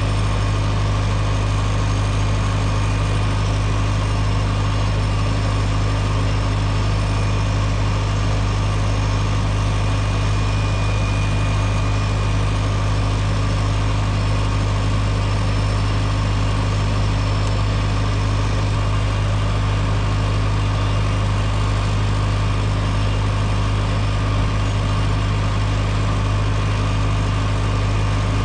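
Tractor engine running steadily at a constant speed: an unchanging low hum with no revving.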